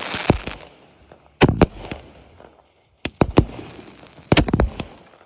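Aerial fireworks bursting: sharp bangs in clusters of two or three roughly every second or so, with a hissing haze trailing some of the bursts.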